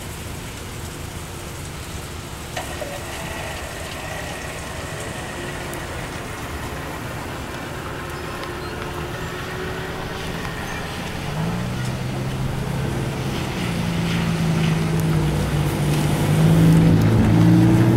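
Steady rushing rumble of freight cars rolling through a grade crossing. From about twelve seconds in, a car engine's hum comes up and grows steadily louder, its pitch shifting near the end as the car pulls away.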